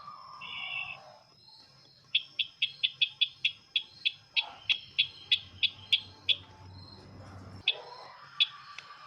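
Call of the sisintar ladang, played as a trapping lure: a short warbling note, then a quick run of about eighteen sharp, high chips, and two more single chips near the end.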